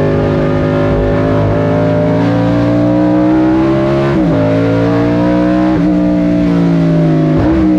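Fuel-injected 5-litre Chevrolet 302 V8 of a mid-engined race car at high revs, heard from inside the cabin where the engine sits. The engine note climbs slowly, then dips sharply and briefly three times in the second half.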